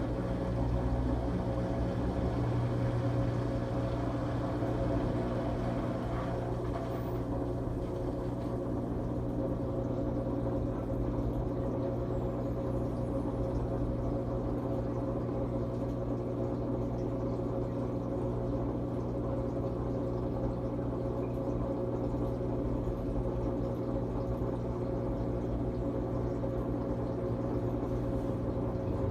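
LG Tromm front-loading drum washing machine running its quick-wash cycle: a steady mechanical hum with several constant tones, level throughout.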